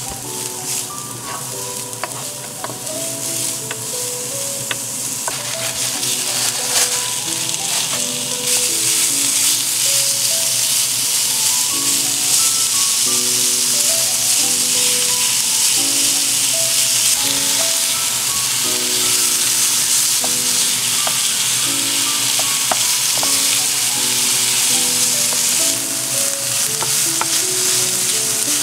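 Chopped onion sizzling in a hot nonstick frying pan over high heat, stirred and scraped with a wooden spatula, then onion and minced pork frying together. The sizzling swells about seven seconds in and holds steady, over light background music.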